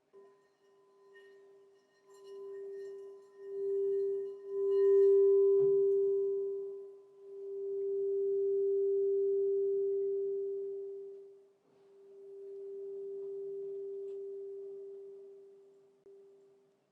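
Crystal singing bowl sounding a single steady, pure note with a faint higher overtone, swelling and fading in long slow waves. A light knock is heard about five and a half seconds in.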